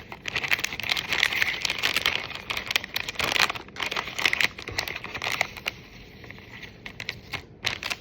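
Plastic snack bag crinkling and rustling as it is handled and opened, a dense run of crackles that thins out to scattered crinkles after about five seconds.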